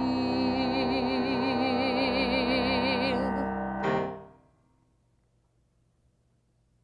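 A woman's voice holds one long sung note with vibrato over a sustained keyboard chord; the voice stops about three seconds in, a short struck sound comes just before four seconds and dies away, and near silence follows.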